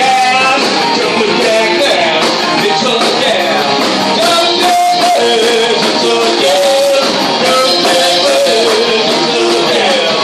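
Live rock band playing a cover song, with electric guitar and singing, recorded loud and compressed from the room.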